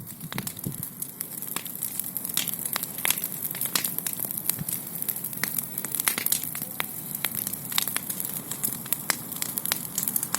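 Large bonfire of burning tree branches crackling, with frequent irregular sharp pops over a steady hiss of the flames.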